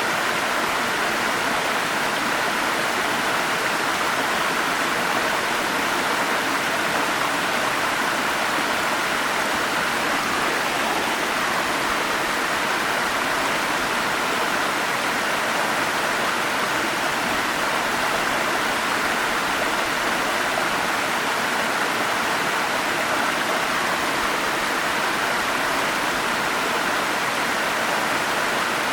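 Forest stream flowing over small cascades: a steady, even rush of running water that holds the same level throughout.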